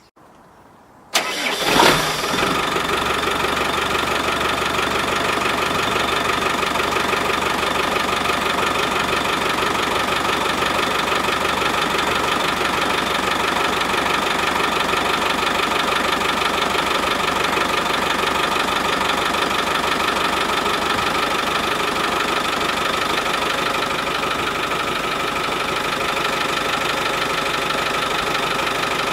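Land Rover Defender 200Tdi 2.5-litre four-cylinder turbo diesel starting about a second in, then idling steadily.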